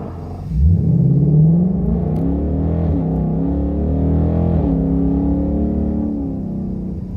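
2019 Mustang GT's 5.0 L V8 through a Pypes H-pipe resonator-delete exhaust pulling away hard from a takeoff. The exhaust note starts suddenly and climbs in pitch, dropping about three seconds in and again near five seconds, as at upshifts, then holds steady.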